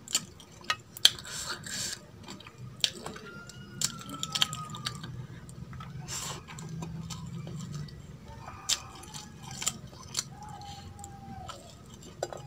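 Close-miked chewing of mutton curry and rice pulao eaten by hand, with wet mouth smacks and sharp clicks scattered through.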